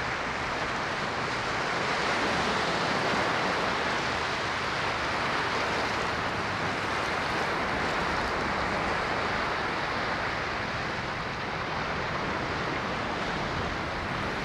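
Ocean waves washing on a shore, a steady rush of surf that swells a little a few seconds in and eases slightly later.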